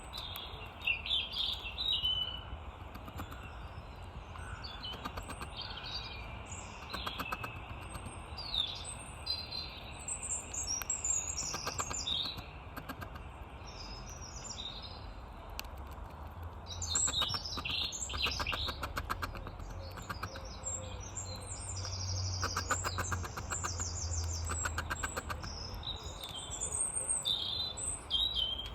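Small garden songbirds chirping and singing, many short calls overlapping throughout, with a few runs of rapid, even ticking notes. A low steady rumble runs underneath.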